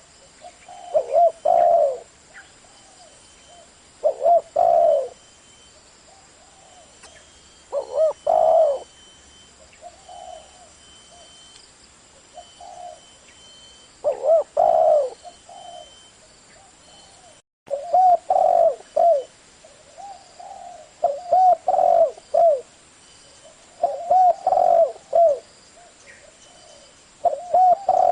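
Spotted dove cooing: short phrases of a few low coos, each note rising and falling in pitch, repeated every couple of seconds with pauses between. The sound cuts out for an instant about two-thirds of the way through.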